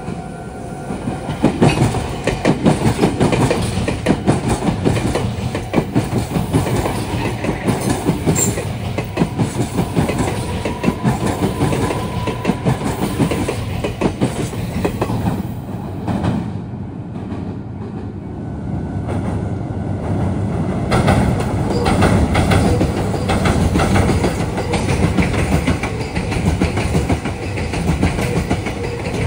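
Electric trains passing over junction pointwork, wheels clattering fast over the rail joints and crossings. A thin steady whine comes in for a few seconds near the middle. The clatter eases about sixteen seconds in, then picks up strongly again as another train runs through.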